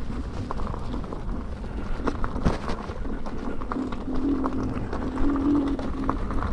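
Inmotion V12 HT electric unicycle riding over a dirt trail: steady wind rumble on the microphone, scattered knocks and crackle from the tyre over gravel and roots, and a low motor hum that steps up and down in pitch.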